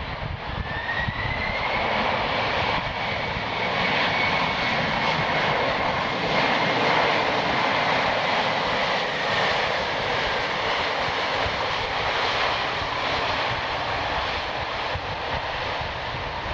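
Boeing 767-300ER's twin jet engines running loud, building over the first couple of seconds. A whine rises about half a second in, holds steady, then fades away after about ten seconds.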